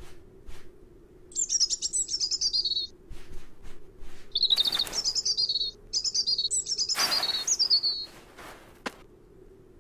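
A small bird twittering in three runs of quick, high chirps, broken by two short rushing noises, one about halfway through and a louder one about seven seconds in.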